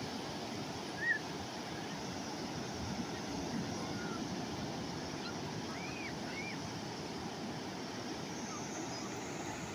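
Calm sea waves washing steadily, with wind on the microphone. A few short high chirps sound over it: one about a second in and two close together near six seconds.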